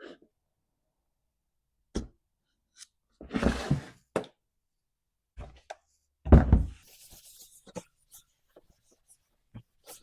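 Scattered knocks and clicks of hand tools and parts being handled on a workbench, with two louder bursts of clatter about three and a half and six and a half seconds in.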